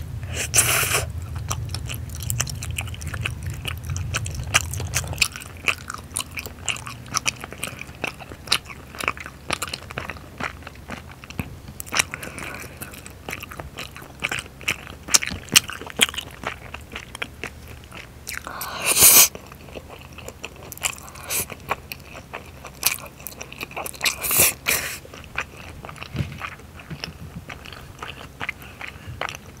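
Close-miked mouth sounds of eating chewy rice cakes and spicy stir-fried noodles: biting and chewing with many small wet smacking clicks, and a few louder noisy bursts, the loudest about two-thirds through.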